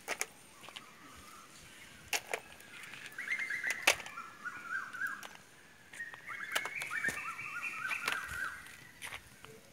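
A bird singing in the background: two phrases of quick, stepped whistled notes, the second a little longer, with a few sharp clicks in between.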